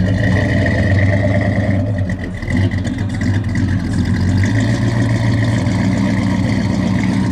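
Chevrolet Monte Carlo's V8 idling steadily through its exhaust, dipping briefly about two seconds in.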